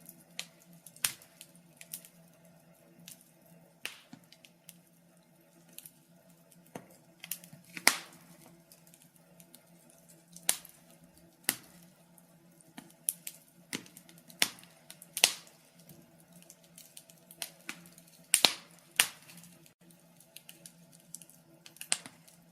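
Wood fire crackling: irregular sharp pops and snaps, a few a second with short lulls, over a faint steady low hum.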